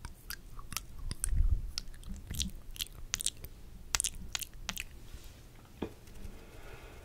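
Close-miked ASMR mouth sounds: quick, irregular wet clicks and smacks of lips and tongue, fading to a soft hiss about five seconds in.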